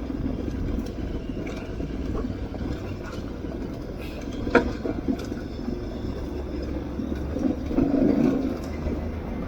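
Aprilia Tuareg 660's parallel-twin engine running steadily over rough off-road ground, with tyre and gravel noise, a sharp knock about halfway through and a louder rough stretch near the end.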